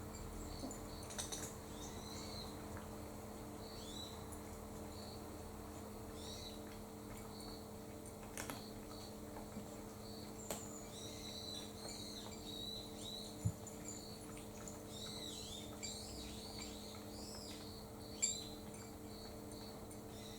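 Small birds chirping and twittering, with a busy flurry of short falling chirps in the second half, over a steady low hum. A few sharp clicks cut in, the loudest about 13 and 18 seconds in.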